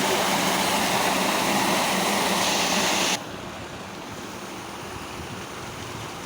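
Water rushing out of a tractor-drawn water tanker's outlet: a steady rushing noise that drops abruptly to a quieter level about three seconds in.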